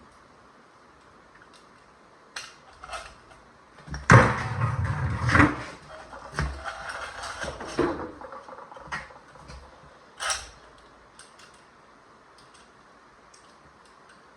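Metal parts and tools knocking and clattering as they are handled, with a loud burst of rattling about four to six seconds in and scattered single clicks.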